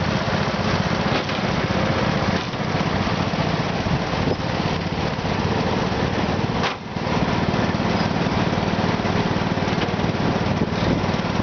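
Small garden-tractor engine running steadily, with a brief dip in level about two-thirds of the way through.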